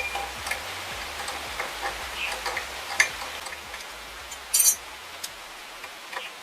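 Scattered light clicks and taps over a low hiss, with a sharper click about three seconds in and a short metallic ring about four and a half seconds in.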